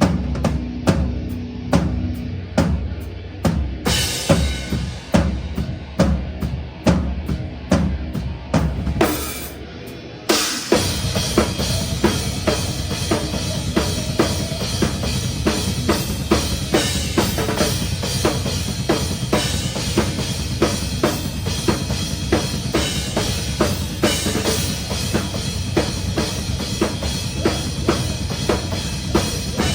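Live metalcore band playing, heard close to the drum kit. For about the first ten seconds there are spaced heavy kick and crash hits over low bass. Then the full band comes in loud and dense, with steady drumming and cymbals.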